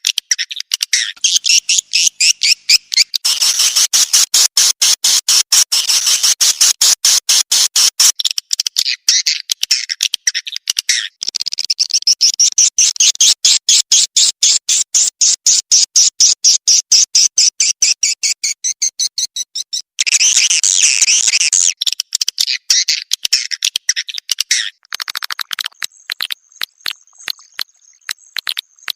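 Swiftlet lure call: fast trains of high, dry chirps, several a second, from edible-nest swiftlets, a sound played to draw swiftlets to roost and nest. A thin steady high tone joins near the end.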